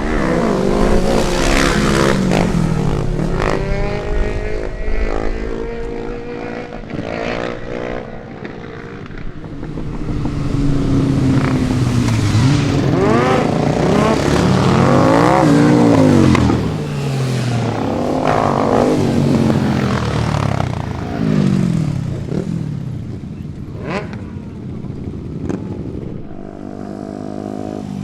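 Car and motorcycle engines revving hard and accelerating away one after another, the pitch climbing and dropping again and again. A few sharp pops are heard near the end.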